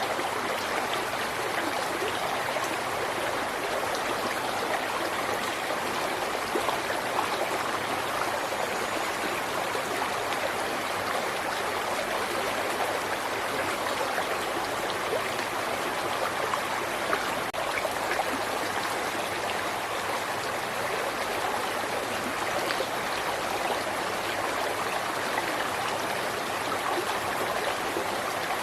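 River water flowing over rocks: a steady rush of running water with fine splashing and gurgling throughout.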